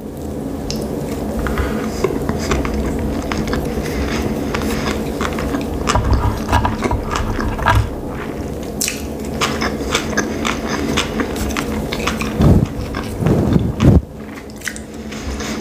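Close-miked chewing of a mouthful of sushi roll: soft, wet mouth sounds with many small clicks and crackles throughout.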